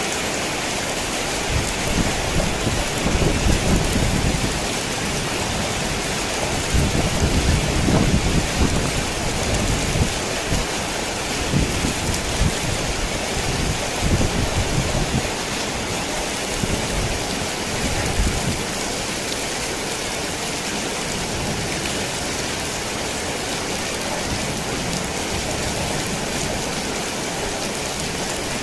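Heavy rain falling steadily on a worn tin roof, with thunder rumbling low through the first half, loudest at about eight seconds, and dying away after about eighteen seconds, leaving the rain alone.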